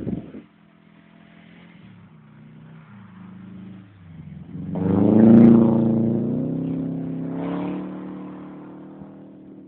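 Subaru Impreza GT's turbocharged flat-four engine revving, quiet at first, then rising sharply to its loudest about halfway through before slowly fading as the car moves away.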